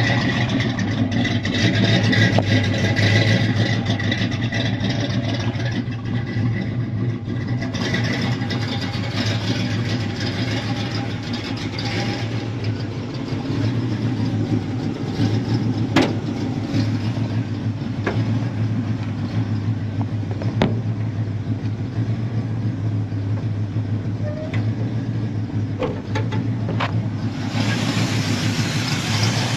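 A 1981 Pontiac Trans Am's non-original 400 cubic-inch V8 running steadily, a smooth, even engine note. A few sharp clicks sound around the middle.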